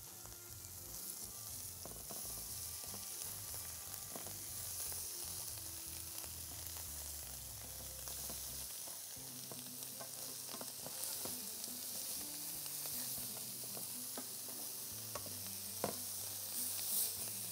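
Beef burger patties sizzling steadily in a nonstick frying pan. A wooden spatula scrapes and taps against the pan a few times as they are turned, mostly near the end.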